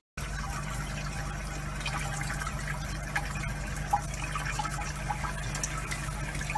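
Water running from a tap in a steady stream, splashing over a wet cat, with small drips and splashes and a low steady hum underneath.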